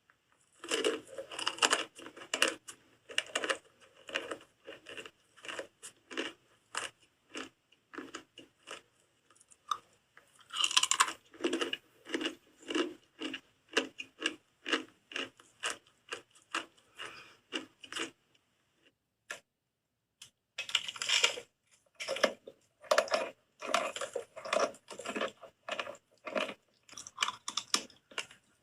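Dry soap being bitten and chewed close to the microphone, a steady run of crunches about one to two a second, with a pause of about two seconds two-thirds of the way through.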